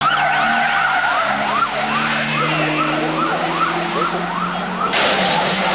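A vehicle siren, first holding a steady wail and then yelping in quick repeated rising sweeps, about three a second, over a low steady engine hum. About five seconds in, it cuts abruptly to the loud rushing noise of a rally car.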